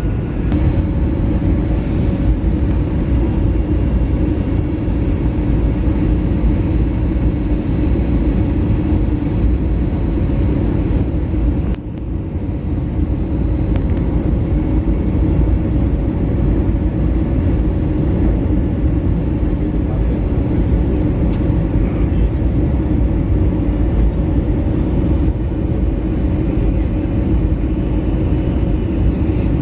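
Airbus A321neo cabin noise in flight: the steady engine and airflow noise, with a low steady hum, as the aircraft flies round after a go-around. The noise dips briefly about twelve seconds in.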